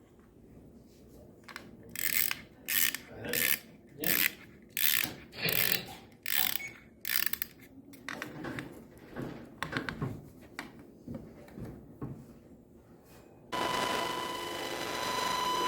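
A run of short rasping strokes, about one and a half a second, loud at first and then weaker and less regular. Near the end it gives way to a steady held tone.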